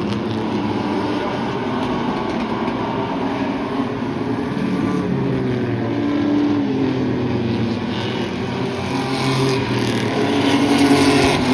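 Several race trucks' engines running together around the track, their pitches rising and falling as they pass under throttle and lift. The sound grows louder near the end as the pack comes closer.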